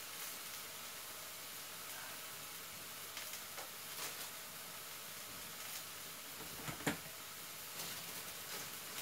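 Onion, spinach and red peppers frying in a wok with a splash of water, sizzling faintly and steadily. A single sharp knock about seven seconds in, with a few faint clicks around it.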